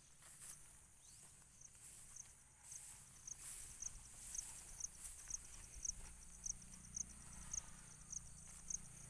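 An insect, most like a cricket, chirping in short, even high chirps about twice a second, starting a few seconds in and growing louder, over a faint low rumble.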